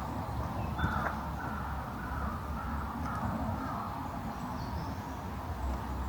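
Crows cawing several times over a steady low outdoor rumble.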